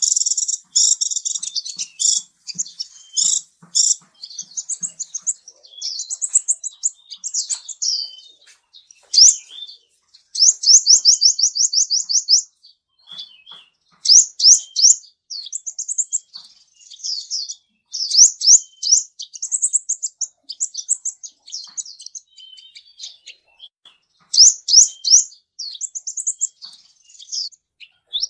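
A small songbird singing continuously in high, rapid chirps and trills. Fast runs of repeated notes and quick sweeping phrases come with brief pauses between them.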